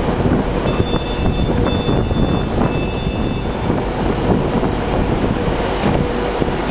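Virgin passenger train running slowly along the platform at close range: a steady rumble and rush of air. A high-pitched wheel squeal rings over it from about a second in until about three and a half seconds in.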